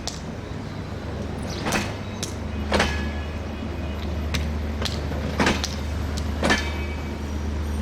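Passenger train passing over a level crossing: its wheels clack over rail joints, several loud clacks about a second apart with lighter ticks between, over a steady low rumble.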